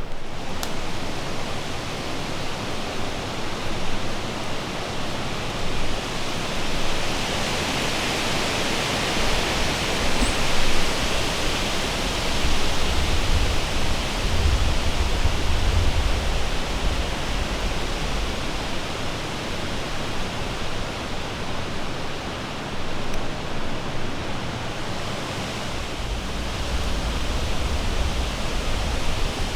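Strong wind, around 25 miles an hour, rushing steadily through the trees, with gusts buffeting the microphone as low rumbles.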